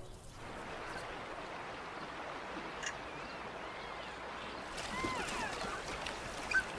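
Steady rush of flowing water, with a few faint bird calls about five seconds in.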